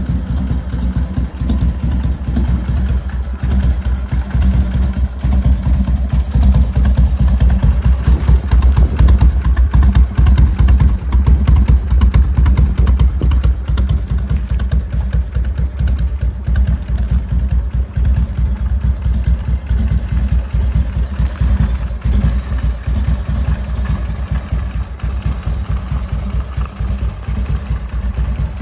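Large motorcycle engine running with a rapid, rough train of firing pulses. It grows louder for about ten seconds, a few seconds in, then eases back.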